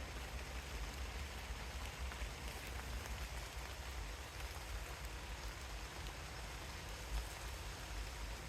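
Steady rain falling in woodland, an even hiss with scattered drops ticking, over a low rumble.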